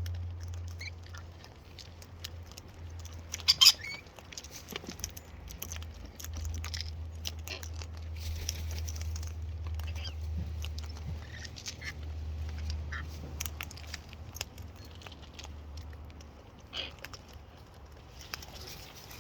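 Cockatoos feeding at close range: scattered clicks and taps of beaks and claws working at food, with a sharp cluster of clicks a few seconds in and a few short, soft chirps. A steady low hum runs underneath.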